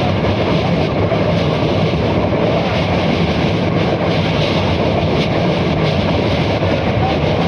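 Express passenger train running over a river bridge: a steady, loud rumble of wheels on the track.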